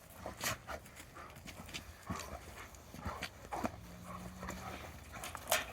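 Dogs moving about: a scatter of irregular light clicks and knocks from their feet, with a brief faint low hum a little past halfway.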